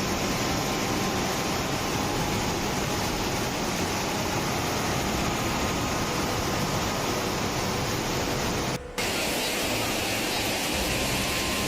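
Rushing floodwater: a steady, even rush of water noise, with a brief break just under nine seconds in before it carries on.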